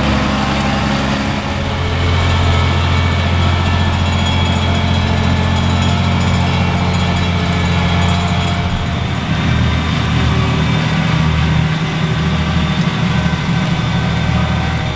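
Diesel engine of large farm machinery running steadily and loudly. Its tone changes about nine seconds in.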